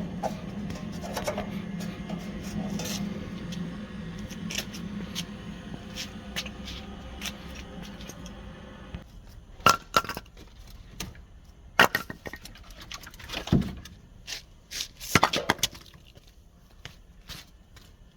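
Metal stove parts clinking and scraping as they are handled, with sharp separate clinks through the second half. A low steady hum underlies the first half and stops about nine seconds in.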